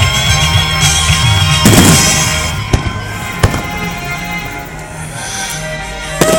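Fireworks bursting over music. One large bang with a long rumbling tail comes about two seconds in, two sharp cracks follow shortly after, and another bang comes near the end.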